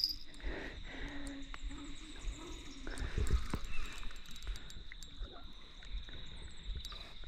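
Faint outdoor ambience: a steady high insect drone, typical of crickets, with scattered small clicks and knocks.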